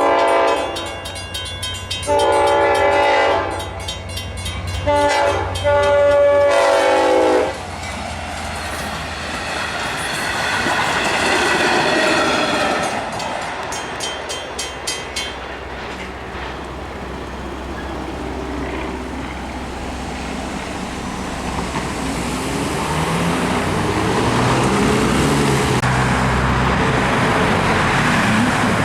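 Long Island Rail Road train's multi-tone air horn sounding the grade-crossing signal: the end of a long blast, another long one, a short one and a final long one. The train then rolls through the crossing, its wheels clattering over the rails.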